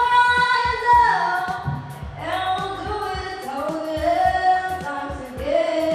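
A young female voice singing over a backing track with a beat. She holds a long note that drops in pitch about a second in, then starts a new phrase.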